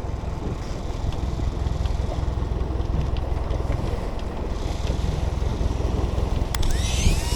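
Steady low rumble of a small fishing boat's engine at sea, with wind on the microphone. Near the end there is a sharp click, then a warbling high electronic tone begins.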